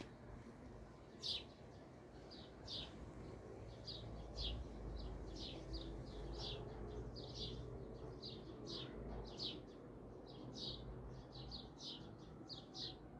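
Small birds chirping: short, high chirps repeated about two or three times a second, over a low steady rumble.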